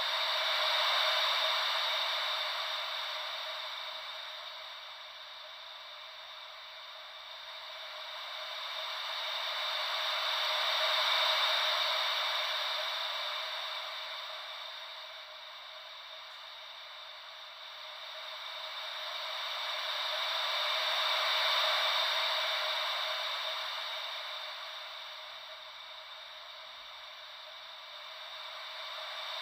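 White-noise hiss made to sound like gentle ocean waves, with no deep rumble. It swells and fades slowly and evenly about every ten seconds, cresting three times.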